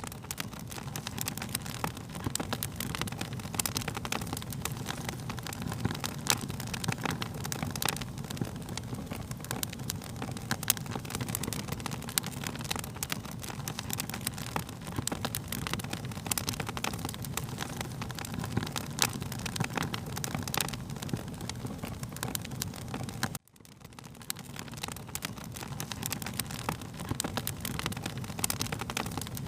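Wood fire crackling, with many sharp pops and snaps over a steady low rumble of flames. About three-quarters of the way through, the sound cuts out for an instant and fades back in.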